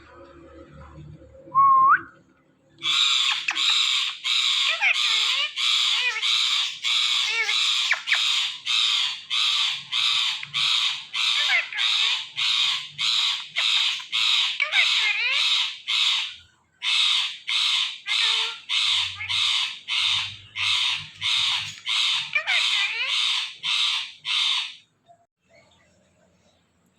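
Indian ringneck parakeet giving its natural call: a long run of harsh, screechy squawks, about two a second, with a brief break about halfway through. A short rising whistle comes just before the squawking starts.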